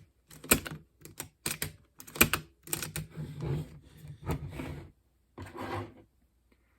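Irregular sharp clicks and short clattering rattles from the mechanism of a Macintosh 128K external floppy drive being handled by hand, about a dozen in uneven rhythm, stopping about a second before the end.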